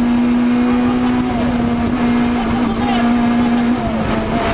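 Citroën C2 rally car's engine at high revs, heard from inside the cabin. Its steady note drops briefly two or three times.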